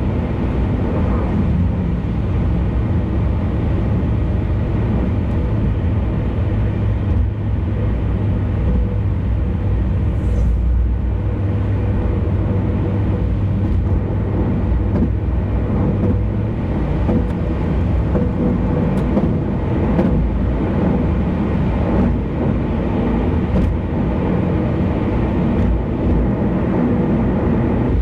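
Steady low rumble of road and engine noise from a car cruising on an expressway.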